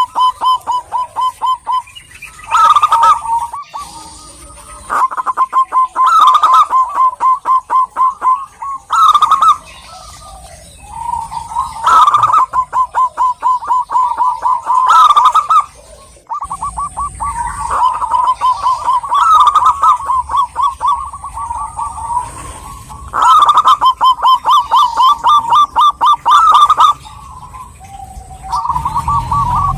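Zebra dove (perkutut) song: phrases of quick, stuttering coos pitched around one note, repeated one after another with short pauses between them.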